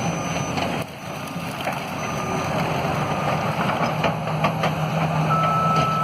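Heavy diesel demolition machinery running steadily, with scattered knocks and clatter over the engine.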